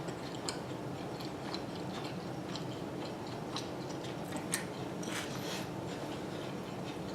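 Close-miked chewing of barbecue chicken and bacon pizza: irregular soft wet mouth clicks over a steady low hum.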